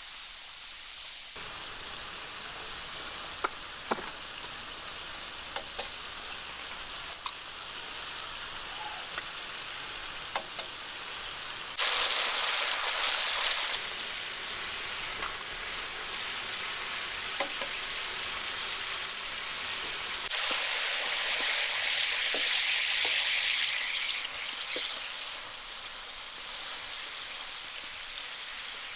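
Food sizzling as it fries: a steady hiss with occasional small pops, turning louder for a couple of seconds about twelve seconds in and again for a few seconds from about twenty seconds in.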